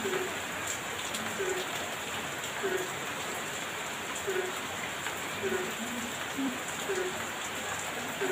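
Heavy rain falling steadily. A short low note repeats about once a second under it.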